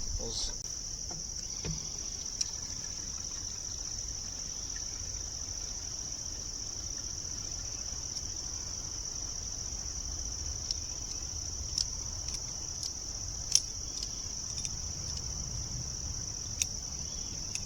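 Steady high-pitched chorus of insects such as crickets, with a few sharp clicks and light knocks scattered through it, the loudest about two-thirds of the way in.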